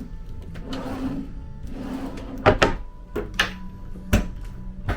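Cabin drawers being pulled open and pushed shut: a run of knocks and sliding clatters starting about halfway in, with background music underneath.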